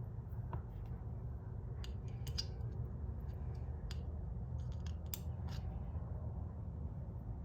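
Scattered light clicks and ticks from handling 4L60E transmission oil pump parts, the vanes being fitted into the pump rotor and the rotor turned, over a steady low hum.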